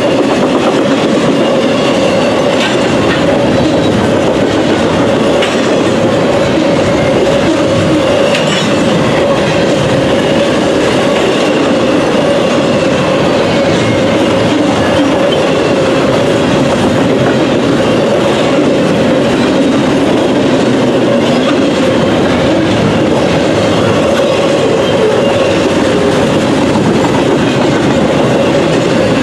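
Double-stack intermodal freight train's container well cars rolling past close by: a steady loud rumble of steel wheels on rail with occasional clicks at rail joints and a steady tone running through it.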